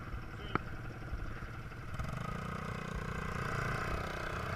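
Quad bike engine running steadily, growing louder about two seconds in, with a single sharp click about half a second in.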